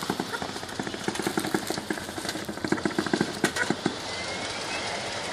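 A large-scale garden railroad train running past, with a rapid, irregular clicking clatter that stops about four seconds in.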